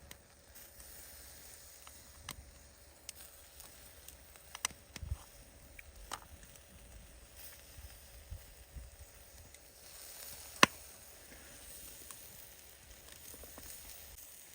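A fire crackling: scattered sharp pops and ticks over a soft steady hiss, with one louder pop about ten and a half seconds in.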